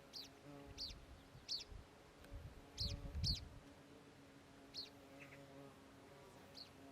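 A bird repeating a short, sharp, high chirp every half-second or so, about nine times, over the steady buzz of a flying insect. There is a brief low rumble about three seconds in.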